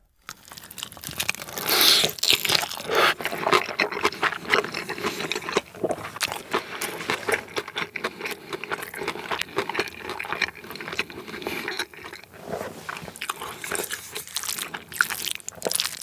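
Close-miked chewing of a large mouthful of tuna mayo topped with stir-fried kimchi and seaweed. It is a dense, continuous run of small crunches and crackles that starts just after the bite goes in, loudest about two seconds in.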